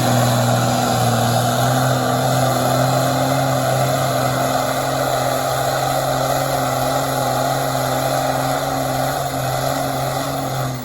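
Ford 8600 tractor's six-cylinder diesel engine held at full throttle under heavy load, pulling a weight-transfer sled, its pitch steady with little change.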